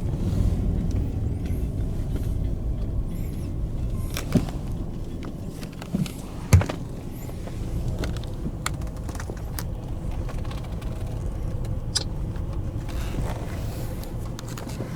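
Low steady rumble like a car's road and engine noise, with a few sharp knocks or clicks, the loudest about six and a half seconds in.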